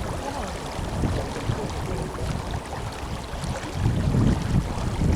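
Tenryu River water rushing and murmuring, with a low rumble from wind on the microphone that swells about four seconds in.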